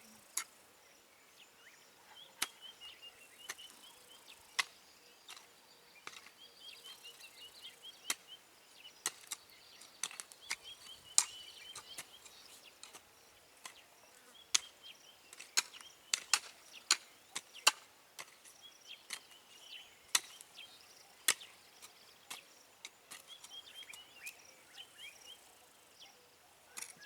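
Scattered sharp clicks and snaps at irregular intervals, with a bird's short chirping phrases repeating every few seconds in the background.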